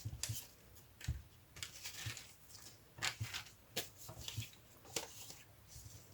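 Paper craft pieces being handled and shuffled on a table: a run of short, crisp rustles and light taps, about one every half second to a second.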